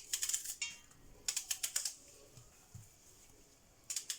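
Kitchen knife chopping an onion on a cutting board: three short runs of quick taps with pauses between.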